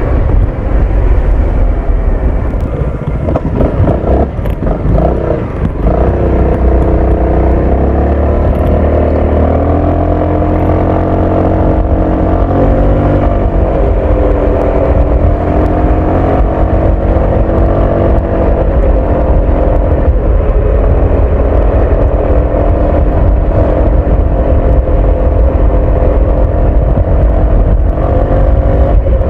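Honda ADV 350 scooter's single-cylinder engine and exhaust riding through city traffic, the engine note rising and falling several times as it speeds up and slows down, with a low rumble underneath.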